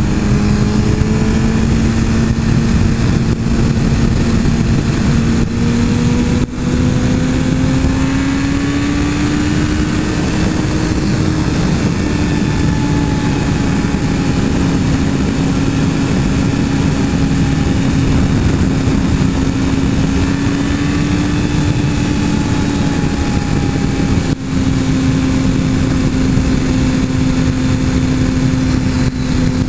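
Suzuki GSX-R 1000 inline-four engine running steadily under way, its pitch rising gently and easing back, over heavy wind noise. The sound drops briefly twice.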